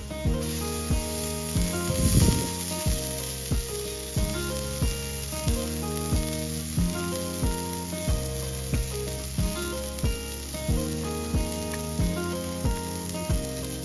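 Venison sizzling on a hot steel griddle plate over a wood fire, the hiss swelling briefly about two seconds in. Background music with a steady beat plays throughout.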